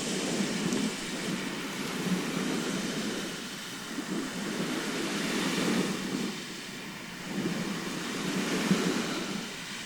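Sea waves washing onto a shore, a steady rush that swells and ebbs every few seconds.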